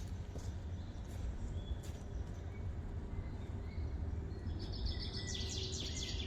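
A wild bird's rapid chattering trill of high repeated notes, starting about four and a half seconds in and lasting under two seconds, over a steady low outdoor rumble with a few faint ticks.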